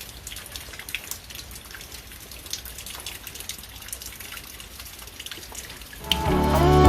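Rain falling and dripping from the eaves: a steady hiss of rain with scattered drops tapping. Background music with guitar comes in near the end.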